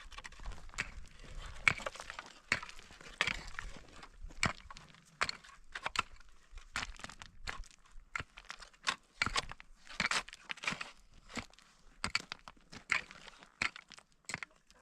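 Irregular crunching and crackling, a few sharp crunches a second with no steady rhythm.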